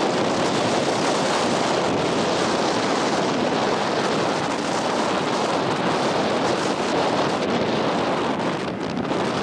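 Strong wind buffeting the microphone: a loud, steady rushing noise that eases slightly near the end.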